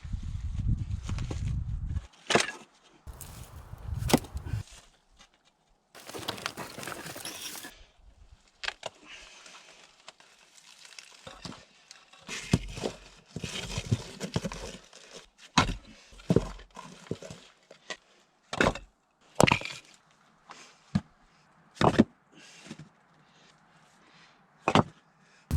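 Sharp cracks and knocks of wood at irregular intervals, a second or a few seconds apart: wood being broken up.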